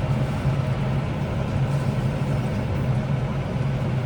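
John Deere tractor engine running steadily under load, a constant low drone heard from inside the cab.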